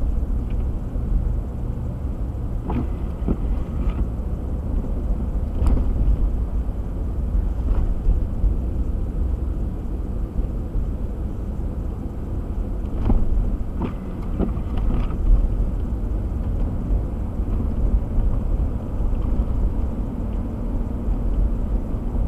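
Car driving on a snowy road, heard from inside the cabin: a steady low rumble of road and engine noise, with a few faint clicks and knocks.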